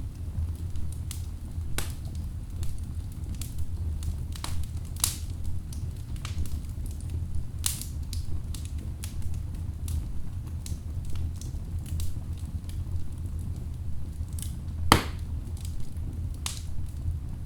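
Wood fire burning in a fireplace: a steady low rumble of flames with irregular crackles and pops from the logs, one louder pop about fifteen seconds in.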